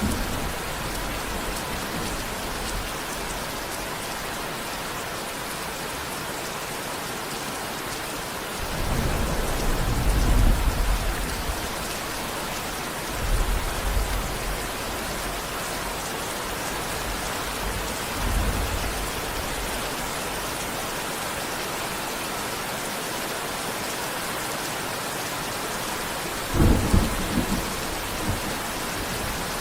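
Steady rain falling, with thunder rumbling low several times: a long roll about nine seconds in, shorter rumbles around thirteen and eighteen seconds, and a sharper clap near the end.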